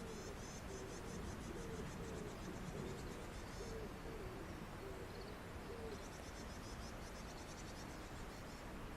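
Wild birds calling: a series of short, low hooting notes repeated over the first six seconds, with a high, rapid trill coming in twice, at the start and again from about two-thirds of the way in.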